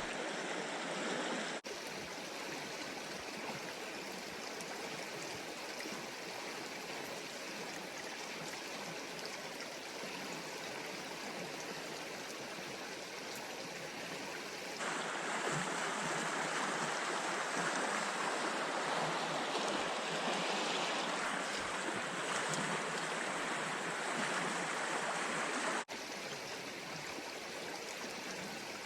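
Creek water rushing steadily. It gets a little louder about halfway through, then drops back abruptly near the end.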